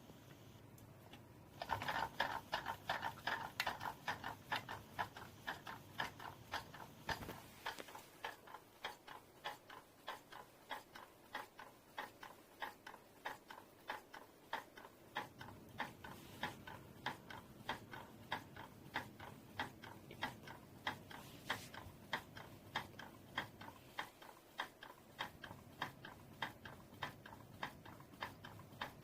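Homemade Stirling engine running slowly, its moving parts clicking once or so with each turn. The clicks form a steady tick-tock of about two to three a second, starting about a second and a half in.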